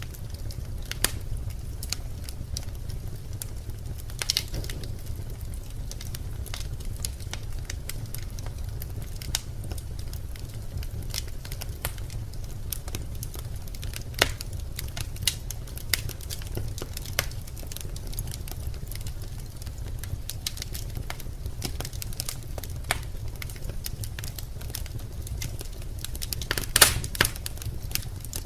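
Birch logs burning in a fireplace: a steady low rumble of the flames with scattered sharp crackles and pops, and a brief cluster of louder pops near the end.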